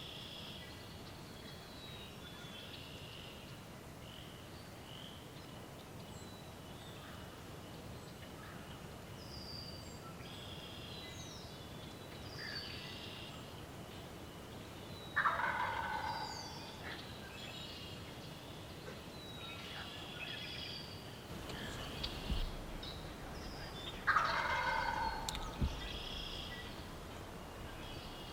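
A wild turkey gobbler gobbling twice, each gobble about a second long and the loudest sounds, with songbirds chirping and whistling throughout.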